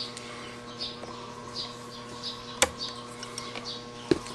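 A bird chirping over and over, about once every two-thirds of a second, over a steady hum. A single sharp click comes about two-thirds of the way through, and a softer knock near the end.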